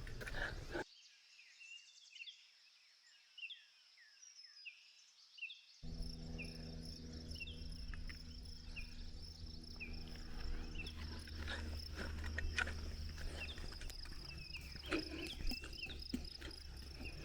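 Faint insect chorus of crickets: a steady high trill, with many short falling chirps over the first dozen seconds. A low hum comes in about six seconds in.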